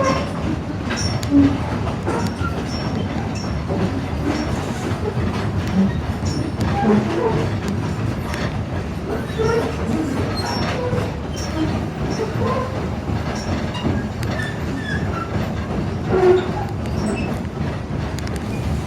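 Narrow-gauge railroad passenger car rolling along the track behind a steam locomotive: a steady rumble of wheels on rail, with clicks over the rail joints and brief wheel squeals.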